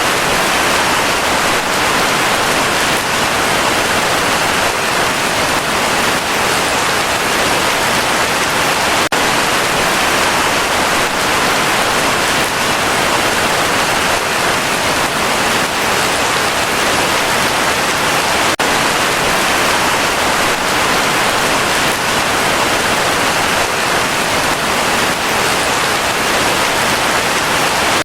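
Heavy rain falling as a dense, steady hiss, with two momentary dips in level about a third and two thirds of the way through.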